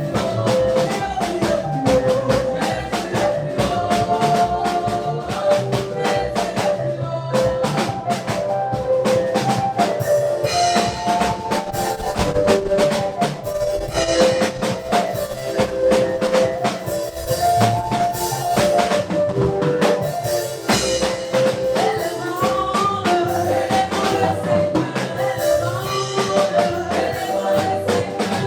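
Live gospel praise music with a driving drum kit beat, bass and sustained melodic parts.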